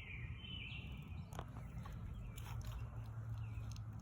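A songbird singing a couple of short gliding phrases in the first second, then scattered soft clicks over a steady low rumble.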